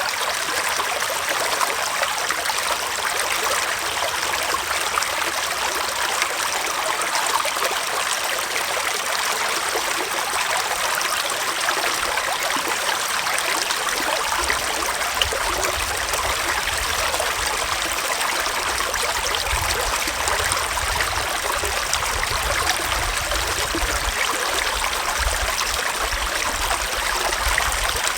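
Gentle forest stream flowing steadily. A low rumble joins about halfway through.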